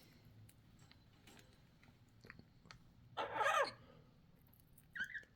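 A pet parrot's short call about three seconds in and a brief chirp near the end, with faint clicks in between. The owner takes the calls for the bird getting mad.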